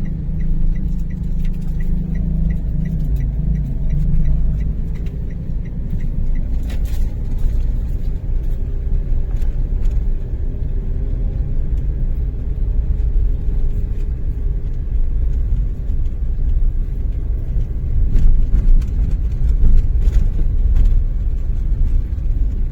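Steady low rumble of a car driving, engine and road noise heard from inside the cabin, with a light, evenly spaced ticking during the first few seconds.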